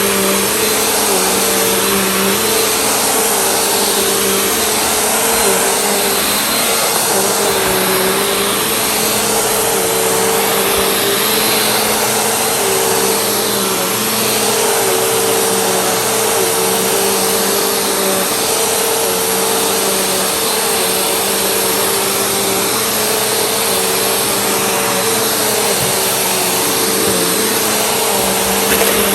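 Vacuum cleaner running steadily, its motor tone dipping slightly every second or two as it is pushed back and forth over the floor.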